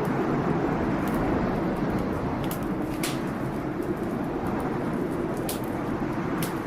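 Steady blizzard wind blowing with a deep, even rush, with a wood fire crackling through it in scattered sharp pops.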